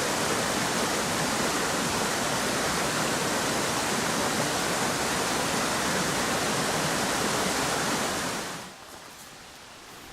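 Steady rush of water from a mountain stream or waterfall. It cuts off abruptly about eight and a half seconds in, leaving a much quieter background with a few faint ticks.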